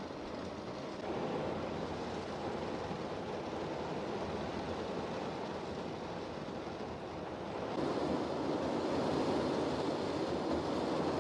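Heavy typhoon rain and wind, a steady rushing noise that steps louder about a second in and again near the end.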